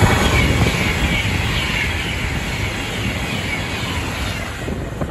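Avanti West Coast Class 390 Pendolino electric express passing close at speed: a loud rush of wheels and air that hits hard as it comes alongside and slowly fades as the carriages go by, with a high whine falling in pitch.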